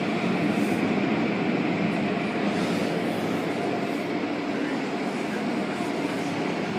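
Steady mechanical rushing noise of an automatic car wash at work: machinery, water and air running continuously without breaks.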